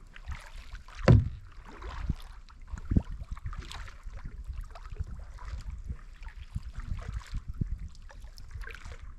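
Kayak paddling: the paddle dipping and splashing in the water, with irregular low thumps, the loudest about a second in and another near three seconds in.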